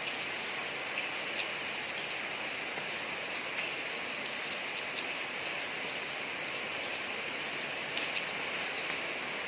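Steady rain falling on a street: an even hiss with scattered drop ticks.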